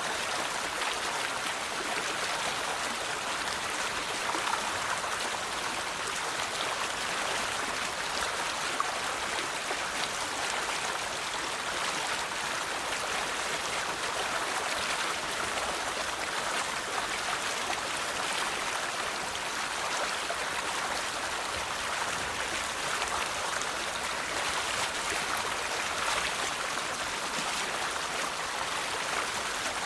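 River water flowing and babbling steadily over stones, an even rushing and splashing with no change.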